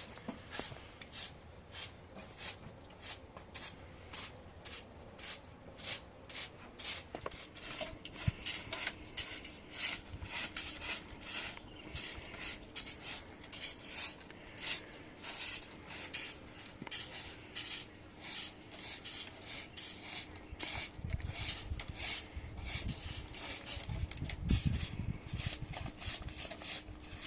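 Rhythmic rubbing or scraping strokes, about two a second, kept up steadily throughout.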